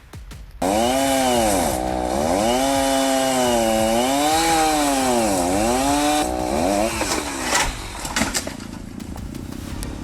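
Chainsaw running at high revs, its pitch dipping and rising again and again. It starts suddenly under a second in and drops to a lower level about six seconds in, with a few sharp clicks after.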